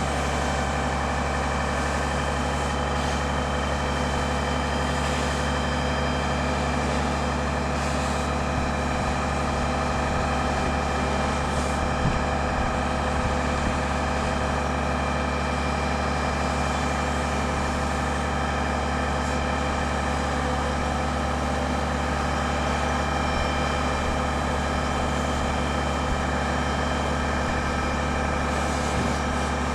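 A heavy engine running steadily at idle.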